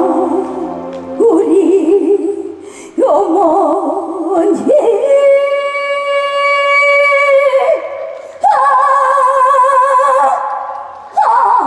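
A woman singing a trot song with heavy vibrato, in phrases of long wavering notes. One note in the middle is held steady for about three seconds before the vibrato returns.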